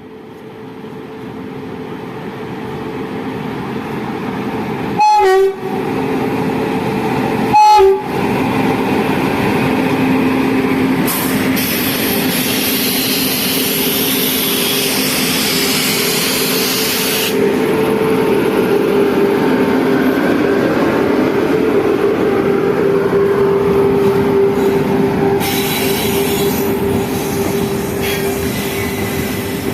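A train approaching and running past: two short, loud horn blasts about two and a half seconds apart, then steady rolling wheel noise. High wheel squeal comes in twice, for several seconds each time.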